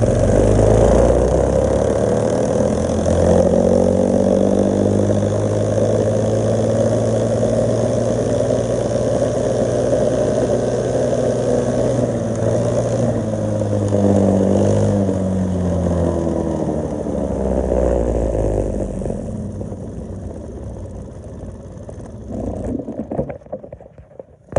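A mini bike and a 145cc dirt bike racing, engines revving up through the gears with the pitch climbing and dropping at each shift. Near the end they ease off and fade away.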